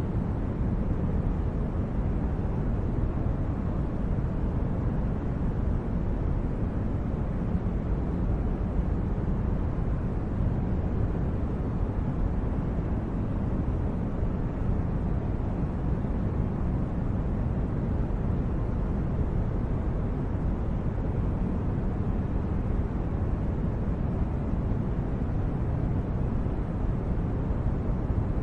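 Steady, even low rumbling noise, like brown noise, with no distinct events or changes.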